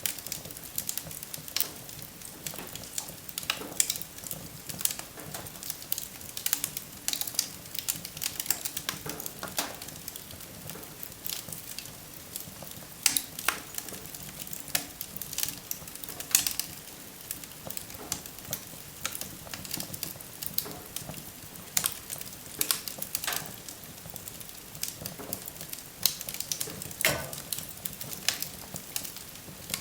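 Wood fire burning in a fireplace: irregular sharp crackles and pops over a steady low hiss of flames.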